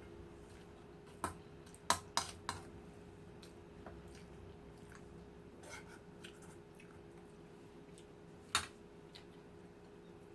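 A person eating: chewing, with a quick run of four sharp clicks a second or two in and one more sharp click near the end, over a faint steady hum.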